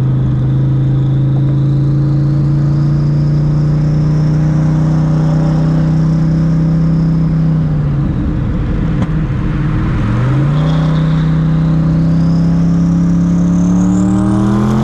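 Twin-turbo Ford Mustang Cobra V8 under hard acceleration: the engine note climbs steadily, breaks off and dips about eight seconds in, then climbs again in a second pull and drops right at the end. A thin high turbo whistle rises along with it.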